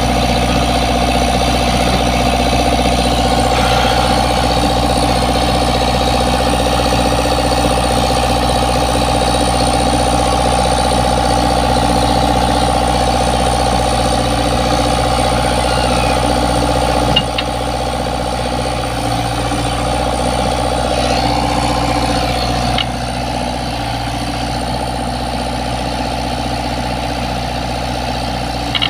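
Komatsu PC75 excavator's diesel engine running steadily. Its loudness drops in two steps, about two-thirds of the way through and again later, with a short click at the first drop and another near the end.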